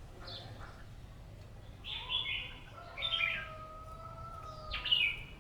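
Red-whiskered bulbul singing: short bright warbled phrases, the loudest three about two, three and five seconds in.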